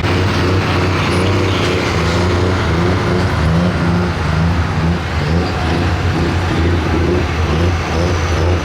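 Pro stock pulling tractor's turbocharged diesel engine running loud and steady.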